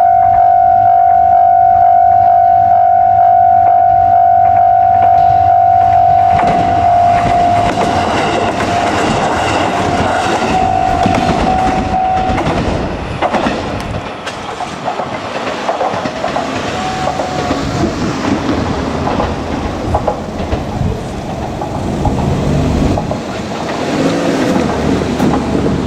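A level crossing's alarm bell rings steadily. A JR Kyushu KiHa 200 diesel railcar then runs over the crossing, its wheels clacking over the rail joints, and the alarm dies away partway through. A low engine sound starts up near the end.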